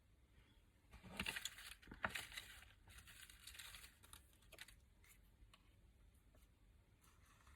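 Paper and card crinkling and rustling as craft pieces are handled, in a couple of louder bursts a second or two in, then softer rustles and a few light taps.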